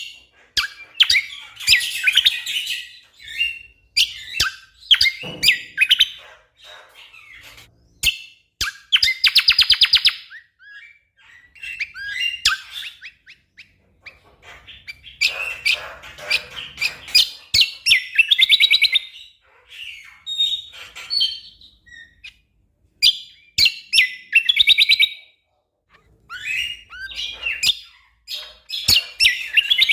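Cucak kombo (kecial kombok) songbird singing vigorously: bursts of sharp chip notes and fast rattling trills, broken by short pauses.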